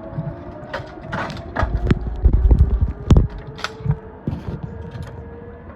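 Irregular clicks and knocks of zip-line harness and trolley gear being handled and clipped on, with a low rumble about two seconds in.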